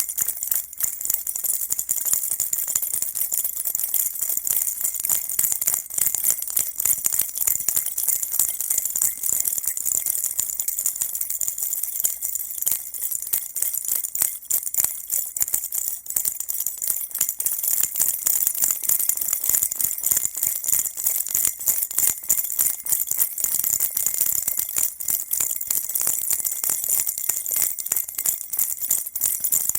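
A baby rattle shaken continuously, a dense, steady high-pitched jingling of small beads or bells.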